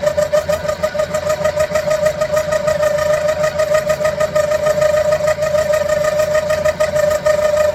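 Central Machinery (Sieg X2) benchtop mini milling machine cutting 1045 steel: the cutter in the cut gives a steady high-pitched tone that pulses rapidly, over the low hum of the motor.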